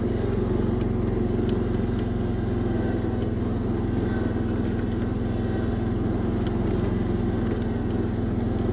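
Engine of a 1976 Massey Ferguson 1650 16-horsepower garden tractor running steadily at an even speed.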